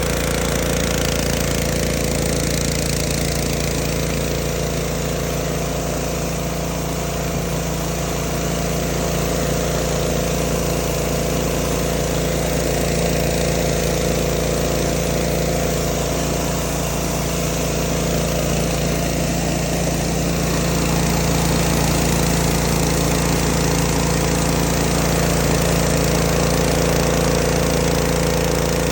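Pressure washer running steadily, an engine hum under the hiss of the water spray, growing slightly louder about two-thirds of the way through.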